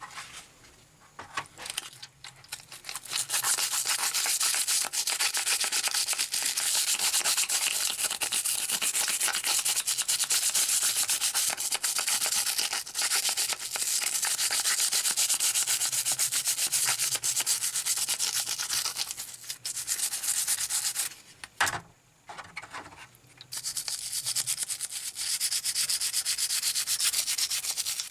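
Sanding on the metal body of a rusty steel toy jeep, a steady scratchy abrasion that stops for a couple of seconds about 21 seconds in, then starts again.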